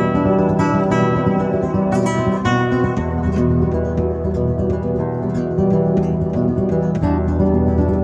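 Music: acoustic guitar playing, plucked and strummed notes in a steady flowing rhythm.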